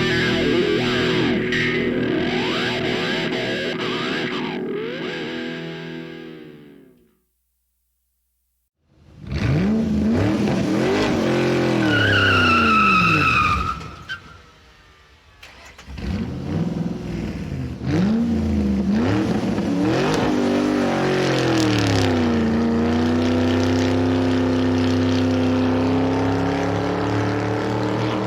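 Car engine revving up and down with repeated rises and falls in pitch, and a high tyre squeal about twelve seconds in. The sound cuts out completely for about two seconds after seven seconds.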